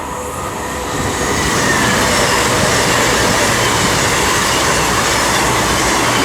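Two coupled Class 221 Super Voyager diesel-electric units running along the platform. The engine and rail noise grows over the first second or two, then holds steady and loud.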